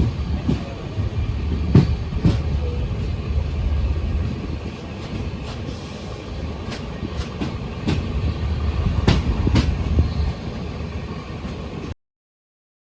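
Janshatabdi Express passenger train running, a steady low rumble with irregular clacks from the wheels, the loudest about nine seconds in. The sound cuts off suddenly near the end.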